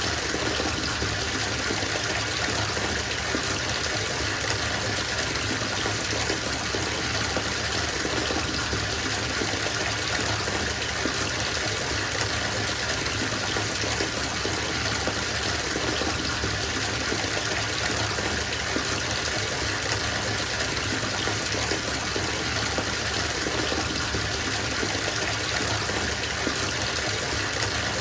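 Bathtub filling from the tap: a steady gush of running water pouring into the tub.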